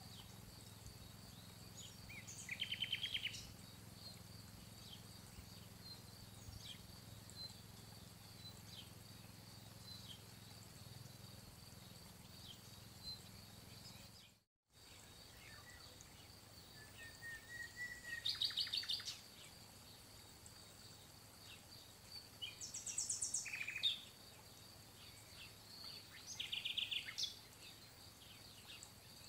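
Songbirds singing: short, rapid trills repeated every few seconds, over a faint steady high tone. The sound drops out for a moment about halfway through.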